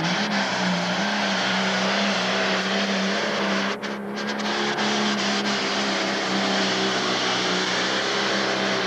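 Pro stock pulling tractor's turbocharged diesel engine running flat out during a pull: a loud, steady engine note that wavers slightly, with a brief dip about four seconds in.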